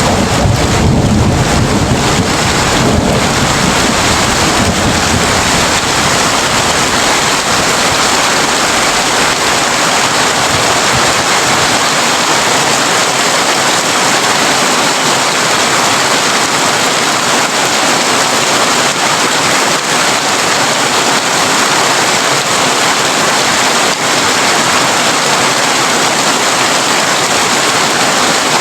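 Heavy rain falling steadily on a tin roof, with a low thunder rumble that fades away over the first several seconds.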